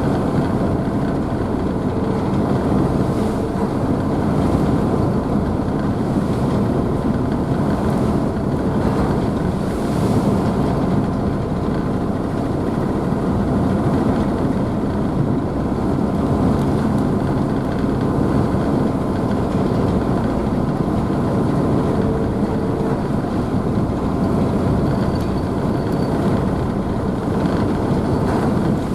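A car ferry's engines running with a steady, even drone, mixed with the rushing wash of the wake and spray behind the ship.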